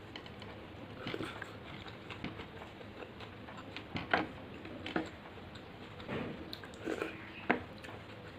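A person eating rice and fish curry close to the microphone: chewing, with a scatter of short, sharp mouth clicks and smacks.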